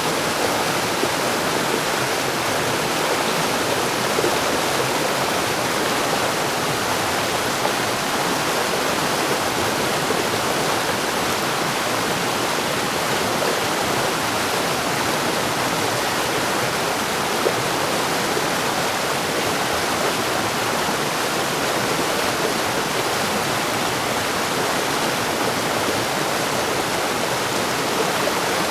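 Mountain stream rushing steadily over rocks, a continuous even splashing with no let-up.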